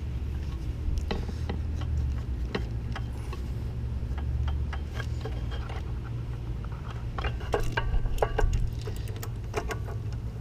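Scattered light clicks and taps of hand work on parts and connectors in a car's engine bay, with a quicker run of clicks about three-quarters of the way through, over a steady low hum.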